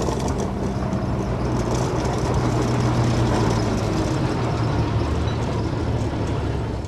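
Heavy diesel engine of an earthmoving machine running steadily, a low hum holding one pitch.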